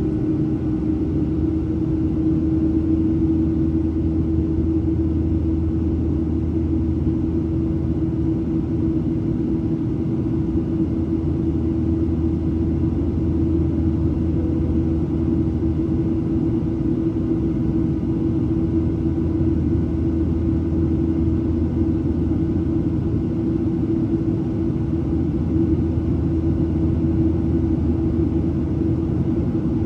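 Steady cabin drone of a Boeing 737-700 airliner, with its CFM56-7B turbofans and airflow giving a constant low rumble and a steady hum.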